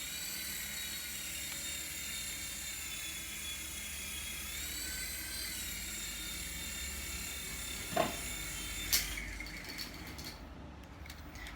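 Small electric motors and rotors of a cheap toy coaxial RC helicopter whining steadily, rising in pitch for a moment as the throttle goes up and settling back. Two sharp knocks come near the end, and the whine then fades out.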